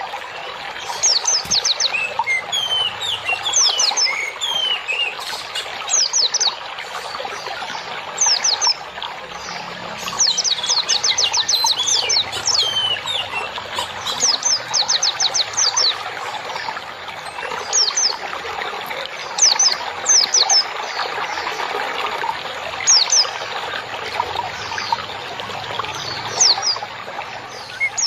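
Songbirds chirping in quick runs of sharply falling high notes, over the steady sound of trickling water.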